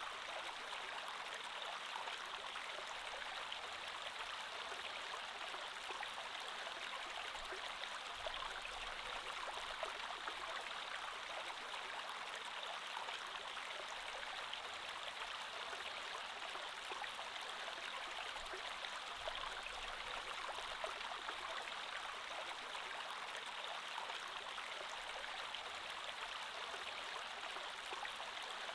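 Creek water flowing steadily over rocks, an even rushing babble.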